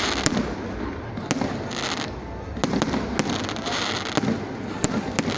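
Fireworks going off: sharp bangs at irregular intervals, about one to two a second, over a continuous hissing crackle.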